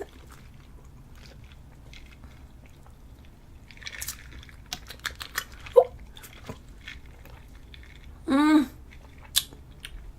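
Person tasting a drink: faint mouth and swallowing clicks with a short soft hiss about four seconds in, and a brief hummed "mm" near the end.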